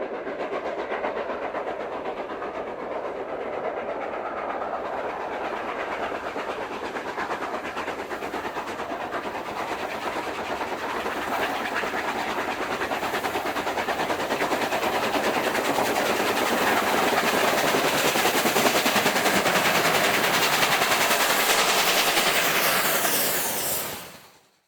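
Steam locomotive and train running, a dense rapid chatter that grows steadily louder, then fades out quickly near the end.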